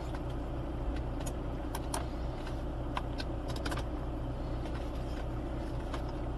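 Audi A6 2.0 TDI four-cylinder turbodiesel engine idling steadily, with a few faint clicks over the hum.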